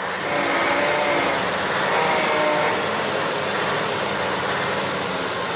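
Heavy truck engine running with a dense, steady drone, a little louder in the first half.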